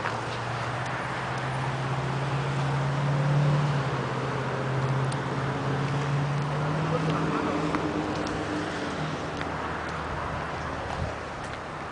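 A motor vehicle's engine hum passing by, swelling to its loudest about three to four seconds in and fading away after about nine seconds.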